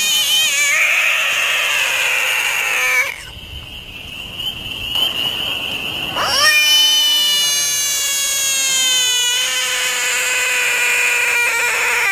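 Long, drawn-out animal cries with a steady pitch: one lasting about three seconds, then, after a short break, a second that runs on for more than five seconds.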